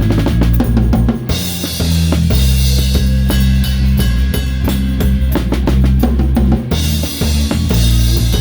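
Live rock band playing, with the drum kit up front: a Pearl kit with a towel-dampened snare, kick and snare hits over held bass-guitar notes. Twice the bass drops out under a bright cymbal crash wash, about a second in and again near the end.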